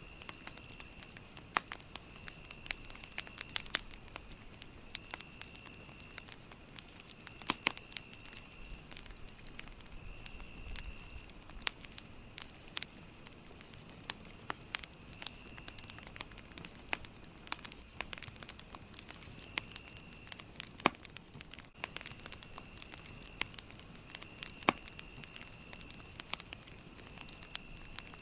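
Campfire crackling, with irregular sharp pops over a steady hiss. A steady, high-pitched pulsing chirp and a lower on-and-off chirp run in the background.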